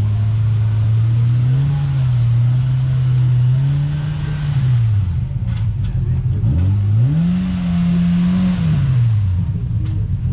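Side-by-side UTV engine running under throttle, its pitch climbing and holding, falling off about halfway through, climbing again, then dropping off near the end before picking up once more.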